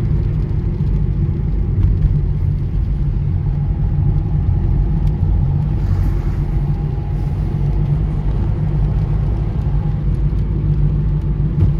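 Car driving on the road: a steady low rumble of engine and tyres, with a faint steady whine in the middle of the stretch.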